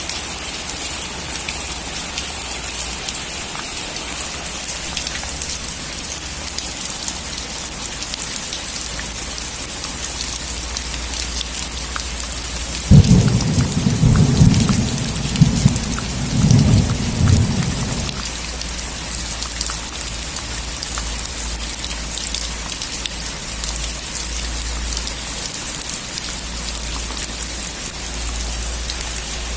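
Heavy rain drumming steadily on a metal roof, with a thunderclap about halfway through that cracks suddenly and rumbles for about five seconds.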